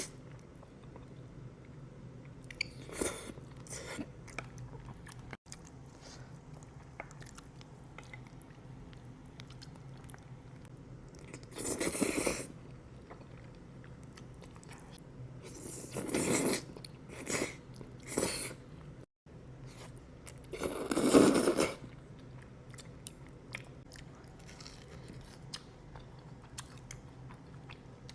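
Close-miked mukbang eating: about half a dozen loud bites and bursts of chewing, the loudest about two-thirds of the way through, with quieter chewing and mouth clicks between, over a low steady hum.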